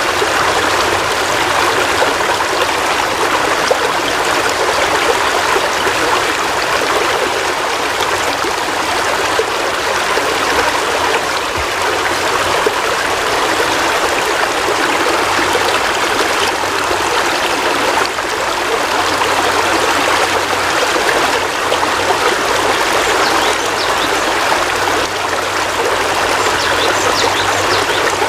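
Heavy rain falling steadily, an even rush of water with no breaks or changes.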